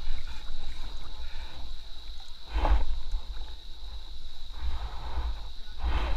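River water rushing and splashing around an inflatable raft, over a low rumble, with louder splashes about two and a half seconds in and near the end.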